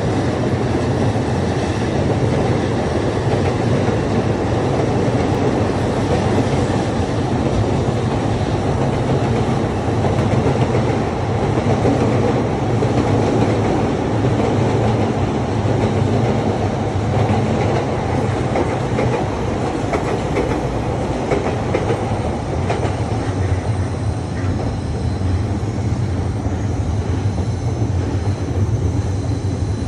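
Electric commuter train running on the tracks below: a steady, loud rumble of wheels on rails, with some clatter over the rail joints.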